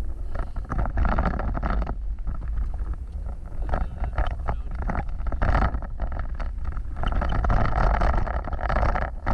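Off-road vehicle driving over rough ground: a steady low rumble of engine and drivetrain with irregular jolting noise, and wind buffeting the microphone.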